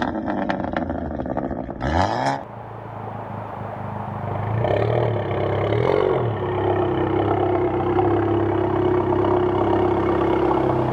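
Volkswagen Golf GTI Mk7.5's turbocharged 2.0-litre four-cylinder through an aftermarket valved exhaust: after a second or two of clicking, the engine flares up about two seconds in, gets two short throttle blips in the middle, then settles to a steady idle.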